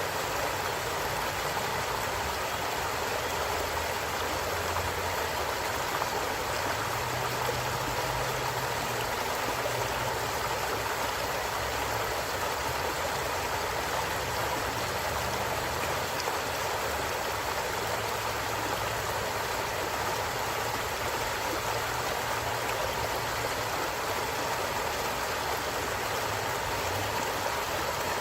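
A forest stream running steadily, an unbroken rush of flowing water.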